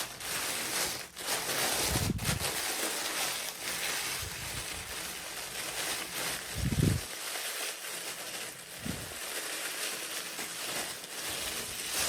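Rustling and crinkling of packaging being handled, with a few soft low thumps.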